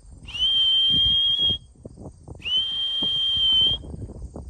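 Two long, steady high whistles, each rising quickly at the start and held for about a second and a half, a second apart. Whistle calls urging homing pigeons back from a race to land at the loft and trap.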